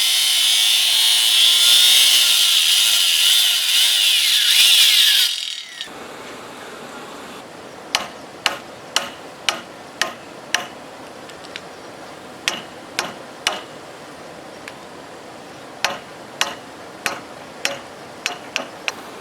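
A power saw cuts through wood for about five seconds and stops suddenly. Then a hammer strikes wood in three runs of sharp blows, about two a second, as nails are driven.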